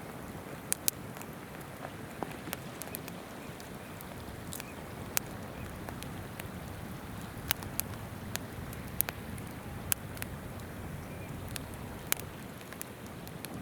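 Wood campfire crackling with irregular sharp pops over the steady rush of river water.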